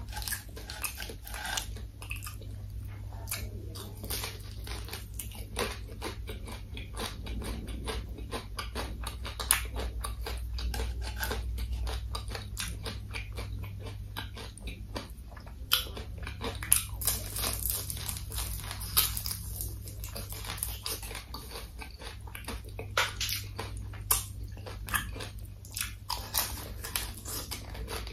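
Close-miked chewing of crispy fried food: a dense crackle of crunching batter, with louder crunches now and then. A low steady hum runs underneath.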